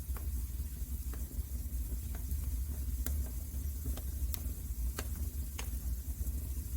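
Wood fire crackling in a fireplace: irregular sharp pops and snaps, about nine in all, over a steady low rumble and a soft hiss.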